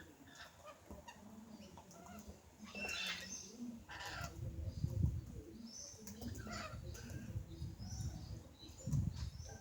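Birds making short, scattered chirping calls over low rustling and bumping noises, loudest about halfway through and again near the end.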